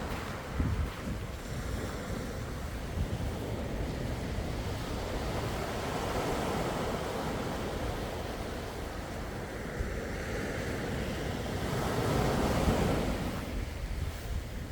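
Sea waves washing onto the shore in a steady wash, with wind rumbling on the microphone; one wave surges louder about twelve seconds in.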